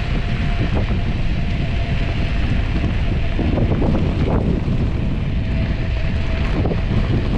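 Strong wind buffeting the action camera's microphone on a bicycle ride into a headwind: a loud, steady rumble.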